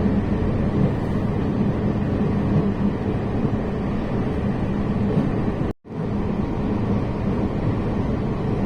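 Steady rumble of a moving train heard from inside the carriage, with a low hum. It drops out for an instant a little before six seconds in, then resumes.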